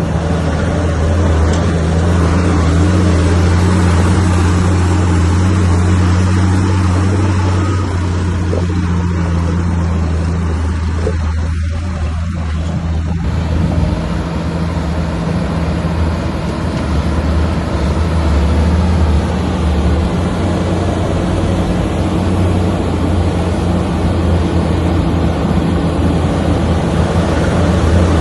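Heavy diesel engine of an earthmoving machine, most likely the bulldozer, running steadily under load with a deep, even drone. The sound shifts in character about 13 seconds in.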